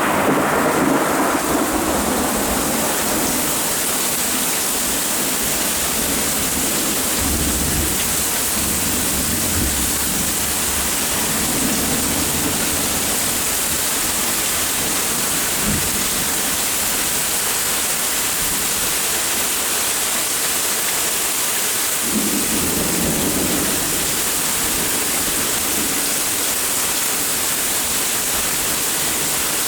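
Steady rain hissing down while thunder rolls and rumbles low underneath, with a stronger roll of thunder starting about two-thirds of the way through.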